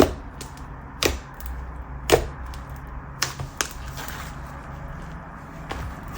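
Air pockets popping in thick slime as it is pressed and stretched by hand: sharp, crispy pops, about six of them at irregular intervals, two in quick succession a little after three seconds in.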